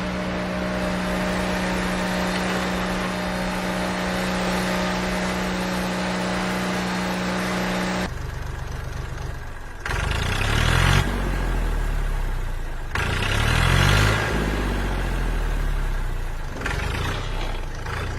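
Vehicle engine sound: a steady running hum that cuts off abruptly about eight seconds in, followed by several spells of revving that rise and fall in pitch.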